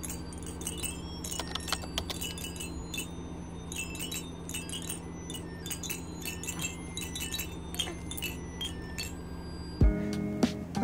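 Wind chimes tinkling, many light, irregular strikes ringing high over a steady low hum. Guitar music begins about a second before the end.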